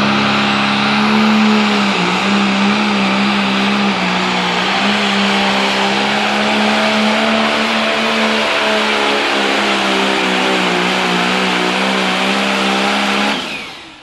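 Pulling tractor's diesel engine held at high, steady revs under full load during a pull, with slight brief dips in pitch; the sound fades out near the end.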